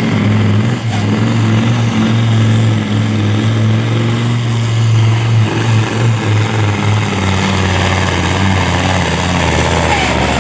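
Pulling truck's diesel engine running hard under load, with a thin high whistle over it. About seven seconds in the engine note drops lower, and near the end the whistle stops.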